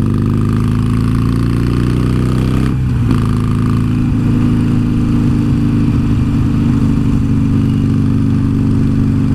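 Harley-Davidson Sportster Iron 883's air-cooled V-twin running under way, its pitch climbing slowly for about three seconds. It breaks off briefly and then runs on at a steady pitch.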